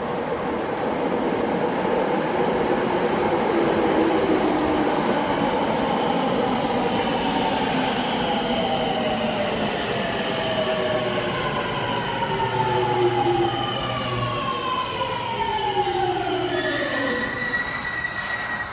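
Rinkai Line 70-000 series electric train braking into a station: its motor whine falls steadily in pitch as it slows, over the rumble of the wheels. Near the end a steady high tone comes in as the train comes to a stop.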